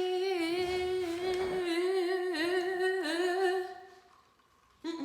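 A woman's voice humming one long held note, steady with slight wavers, that stops about three-quarters of the way through.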